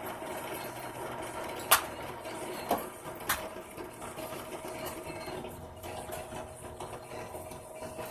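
Small electric drill running steadily while drilling a pin hole through a knife handle, with a few sharp clicks or knocks in the first half.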